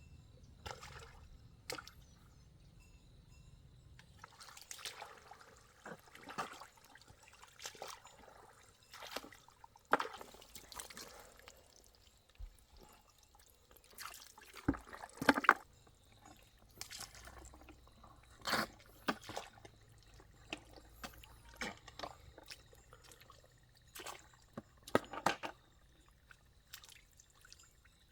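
Water splashing, pouring and dripping in short, irregular bursts, several of them sharply louder than the rest.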